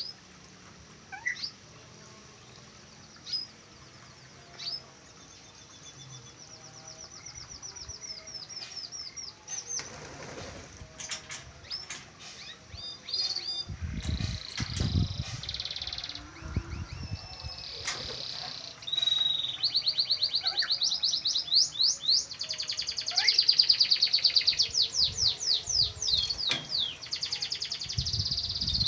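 Caged birds chirping. It begins with a few single high chirps, then turns into rapid runs of repeated high chirps that grow louder and denser through the second half, with a low rumble partway through.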